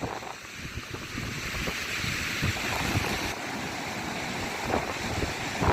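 Sea surf washing onto the beach, a steady rushing hiss, with wind buffeting the microphone in low rumbles.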